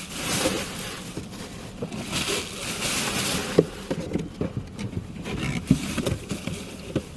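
Rustling of paper and plastic with scattered light knocks and taps as things are handled and moved about: one stretch of rustling at the start and a longer one about two seconds in.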